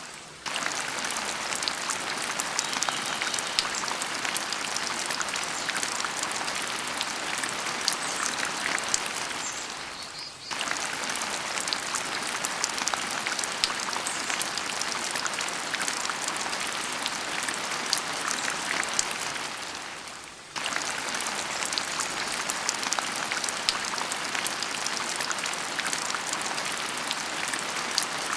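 Steady rain patter, a dense hiss of many small drops. It fades briefly and comes back abruptly about ten seconds in, and again about twenty seconds in.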